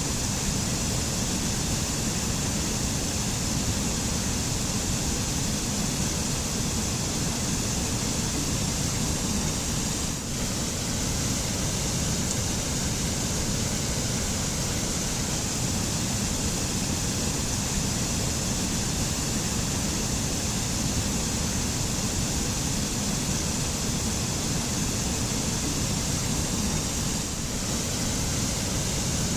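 Waterfall rushing steadily, an even wash of falling water with a brief slight dip about ten seconds in.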